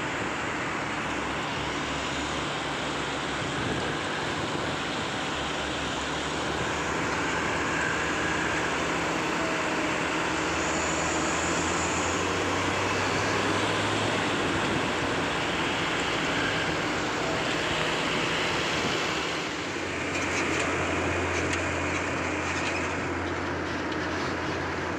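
Road traffic: vehicle engines running with steady road noise, and a low engine drone that grows stronger twice, about ten seconds in and again about twenty seconds in.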